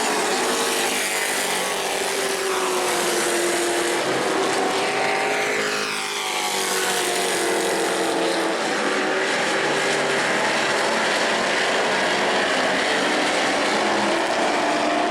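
A field of Pro Truck race trucks running at racing speed, several engines sounding at once, their pitch rising and falling through the laps, with a brief dip and a pitch sweep about six seconds in.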